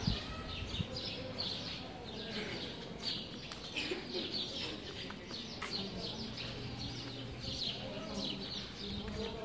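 Small birds chirping, many short high chirps repeating over and over.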